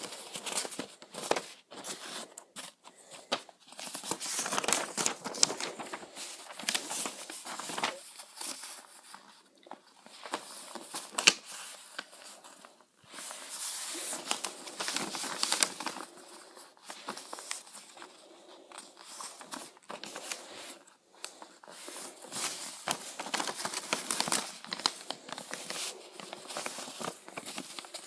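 A sheet of paper being folded and creased by hand: irregular crinkling and rustling, with sharp crackles as the folds are pressed, broken by short pauses.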